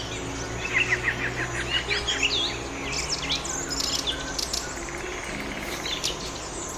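Small songbirds chirping and twittering, with a quick run of short repeated chirps about a second in and scattered rising and falling calls after.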